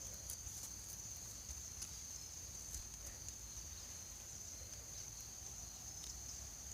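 Quiet woodland ambience: a faint, steady high-pitched hum with a few soft ticks and a low background rumble.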